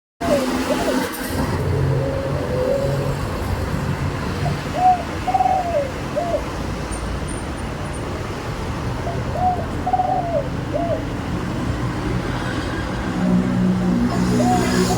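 Spotted dove cooing: phrases of three notes, the middle one longest, repeated about every five seconds over a steady low traffic rumble.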